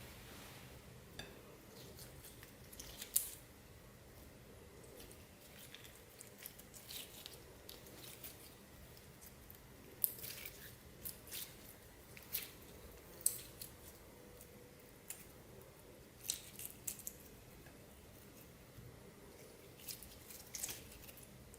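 Clear slime being squished and worked by hand: faint, irregular wet clicks and pops, some coming in small clusters.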